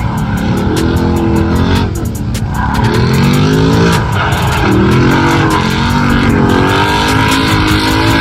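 Car engine being revved hard, its pitch climbing and dropping several times as the car is driven on a drift course.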